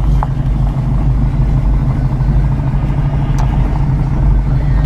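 Chevrolet Nova hot rod's engine running steadily while driving, a deep, even exhaust note.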